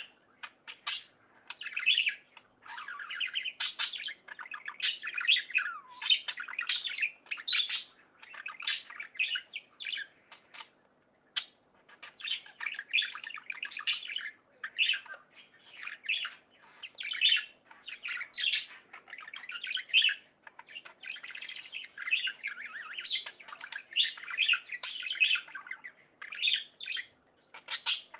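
Budgerigars chirping, warbling and chattering in a dense, irregular stream of short calls mixed with sharp clicks and squawks.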